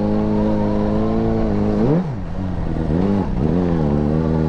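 Suzuki GSR600's inline-four engine with an Akrapovič exhaust running steadily under way. About two seconds in the revs rise and fall quickly, and they dip briefly again a second later.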